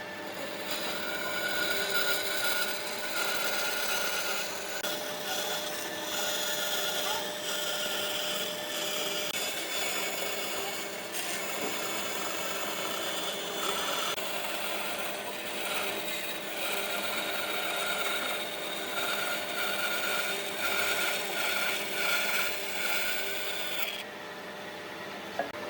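Electric power tool cutting or sanding wood, running steadily with a steady whine over the grinding of the wood, briefly easing off now and then. It stops about a second and a half before the end.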